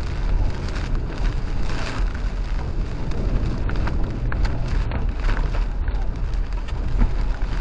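A truck driving through a tropical storm: a steady low rumble of engine, road and wind under a hiss of heavy rain.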